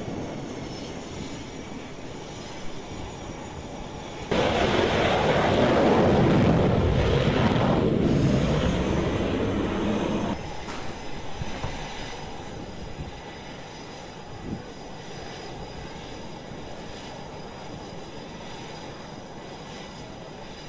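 Jet aircraft engines on an aircraft carrier flight deck, heard as a steady rushing rumble. It jumps much louder about four seconds in and drops back suddenly about ten seconds in.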